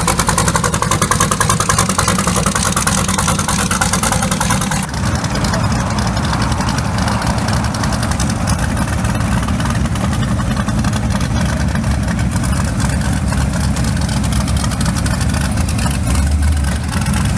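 Modified 5.3 V8 race truck engine running, with rapid popping for about the first five seconds, then settling into a steady rumble.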